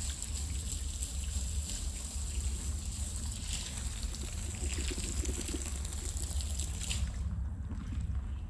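Water running and spattering during a rug wash, over a steady low hum. The water sound cuts off about seven seconds in.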